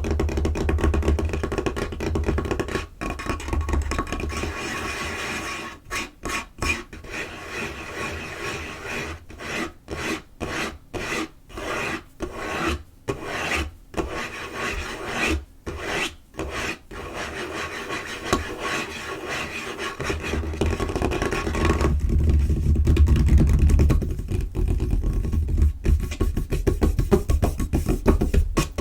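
Fingernails scratching and rubbing fast across a tabletop in rapid rasping strokes. The strokes come in quick bursts with short breaks between them through the middle, and the rubbing turns heavier and fuller later on.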